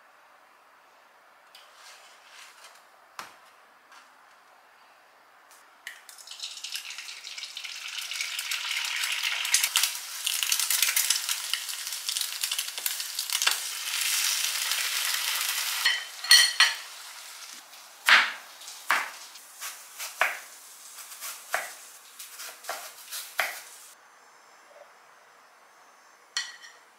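Bacon and eggs sizzling in a nonstick frying pan for about ten seconds, followed by a run of sharp taps and clinks of utensils.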